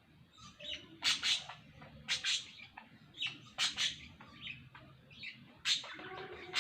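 Small birds chirping: short, high, sharp chirps, often in quick pairs, about one a second.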